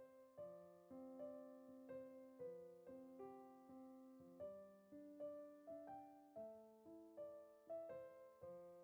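Soft background piano music, a gentle melody of single notes struck about two a second.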